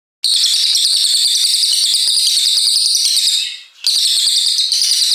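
Cililin coklat songbird singing a long, loud, rapid high-pitched trilling song, its notes coming about ten a second, with a brief break about three and a half seconds in before it carries on.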